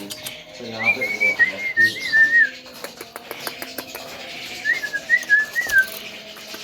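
Javan myna giving two runs of wavering whistled notes, one about a second in and one near the end, with a few sharp clicks between them.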